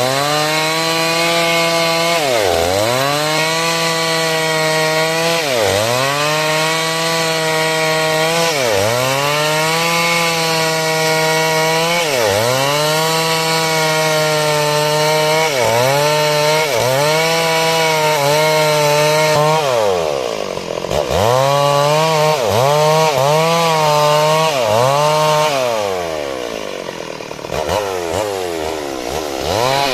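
Two-stroke chainsaw running at high revs while cutting wood. Its pitch sags and recovers about every three seconds as the chain bites and the engine is loaded, then in quicker, shallower dips about once a second after about twenty seconds, when it also runs quieter for a while.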